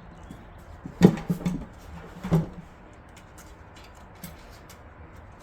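A sharp knock about a second in, a few lighter clatters after it, and a second knock just past two seconds, with faint ticks throughout: hard computer parts being handled during a PC build.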